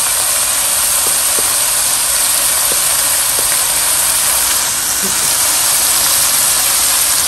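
Chicken korma masala sizzling in a karahi on the gas flame as it is fried down: a loud, steady frying hiss. A few faint clicks sound in the first few seconds.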